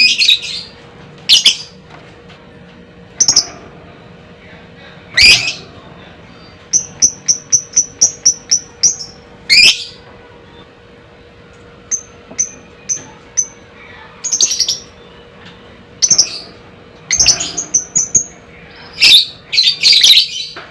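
Lovebird calling: loud shrill screeches every second or two, broken by runs of quick high chirps at about four a second.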